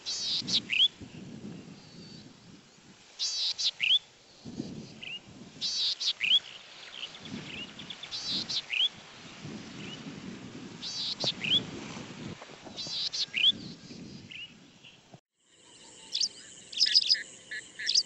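A wild songbird repeating a short call phrase about every two and a half seconds, each phrase a quick cluster of high notes ending in a sliding note, over low background noise. About fifteen seconds in, the recording cuts to different, steadier bird notes.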